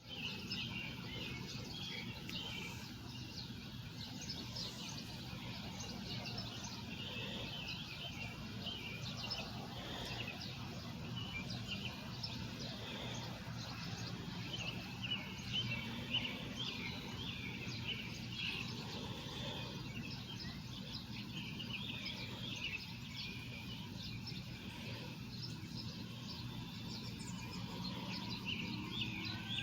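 A flock of small birds chirping continuously, many short overlapping calls, over a steady low background hum.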